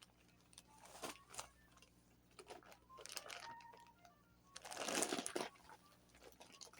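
Crinkling and rustling of packaging being handled, in short bursts with a few light clicks, and a longer, louder rustle about five seconds in.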